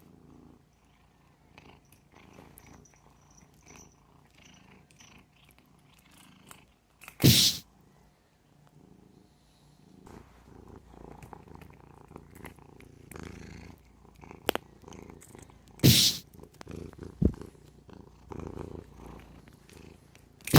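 Domestic cat purring, with a few loud sharp snaps as a stretched elastic smartphone strap is let go, about 7 seconds in, again about 16 seconds in and at the very end.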